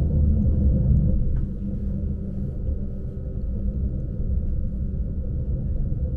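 Lastochka electric multiple-unit train (Siemens Desiro RUS) under way, heard from inside the passenger car: a steady low rumble of wheels and running gear, with faint steady tones above it.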